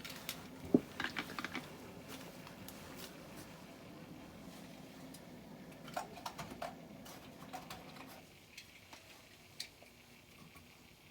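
Small clicks and taps of a diecast toy pickup truck being handled and turned over, in a few short clusters, over a faint low hum that stops about eight seconds in.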